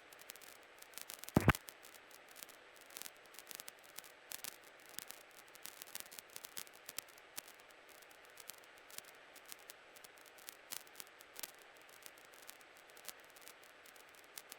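Faint hiss and scattered crackling clicks of a helicopter's cockpit intercom and radio audio feed between transmissions, with one stronger short click about a second and a half in.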